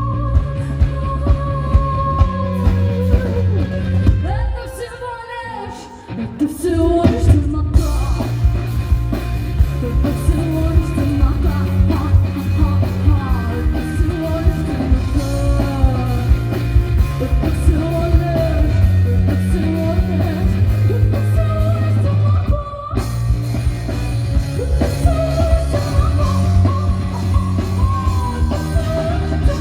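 Live rock band playing a song: drum kit, bass and electric guitar under a singing voice. The band drops out about four seconds in and comes back in full about two seconds later.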